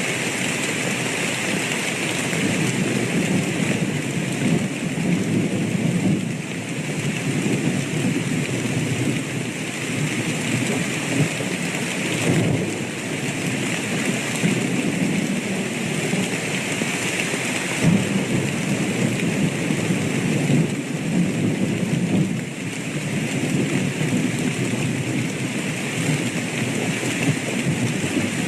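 Thunderstorm: steady rain falling, with low rolling thunder that swells and fades several times.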